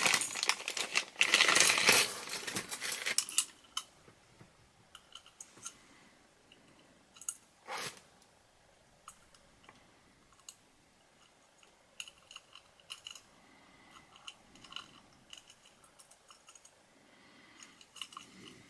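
Plastic packaging crinkling and tearing loudly for about three seconds as a pocket watch is unwrapped. Then comes quiet handling of the small metal watch: scattered light clicks and taps, one brief swish about eight seconds in, and a run of small clicks later on.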